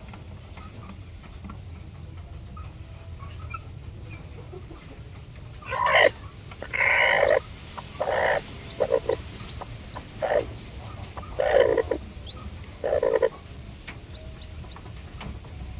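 Aseel Parrot chicken calling, a run of about six short, loud calls spread over some seven seconds, starting about six seconds in.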